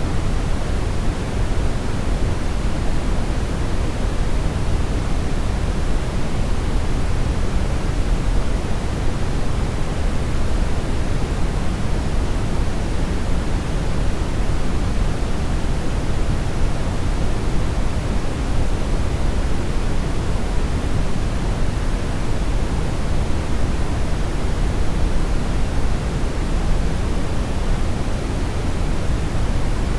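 Synthetic brown noise: a steady, unbroken rush with most of its weight in the low end, like a deep rumble with a soft hiss above it.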